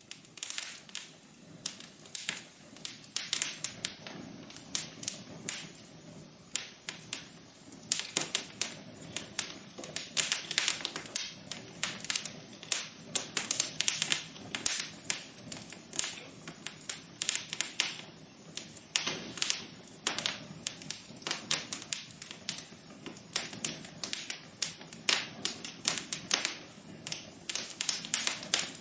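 Wood fire burning in a fireplace, crackling with dense, irregular sharp pops and snaps over a soft steady hiss of flame.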